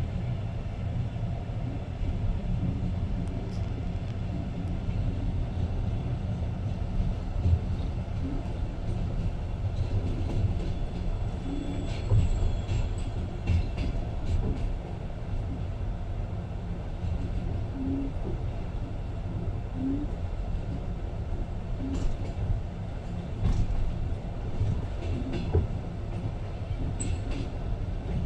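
Passenger train running, heard from aboard: a steady low rumble of wheels on rails with scattered clicks and knocks, more of them near the end.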